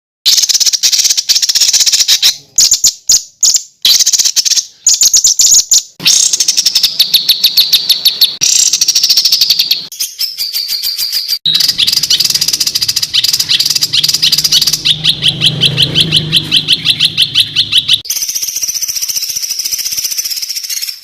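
Spliced recordings of songbirds giving fast, dense runs of sharp repeated high notes. Each clip cuts abruptly to another after a second or a few seconds: a masteran of rapid-fire 'tembakan' phrases, played to tutor caged songbirds.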